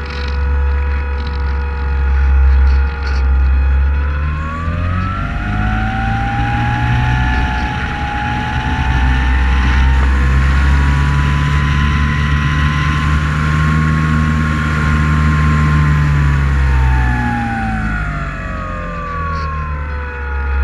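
Multirotor drone's motors and propellers whining as a set of steady tones. The pitch rises together about four seconds in, holds, and falls back near the end as the motor speed changes. A loud low rumble runs underneath.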